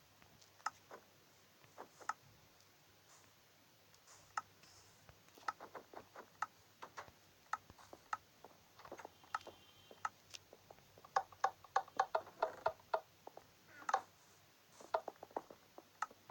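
Irregular light clicks and taps, coming thickest about two-thirds of the way through, over a faint steady hum.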